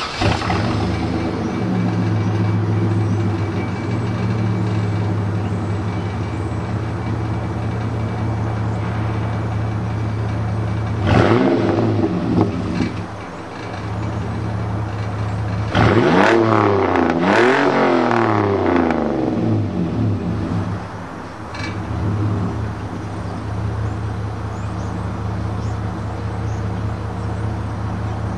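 2000 GMC Sonoma's 4.3-litre V6 running through a Magnaflow Y-pipe and cat, a 3-inch catback, Spintech Prostreet mufflers and dual tailpipes. It idles steadily, is blipped once about eleven seconds in, is revved up and down a few times from about sixteen to nineteen seconds, and gets one more small blip a little later.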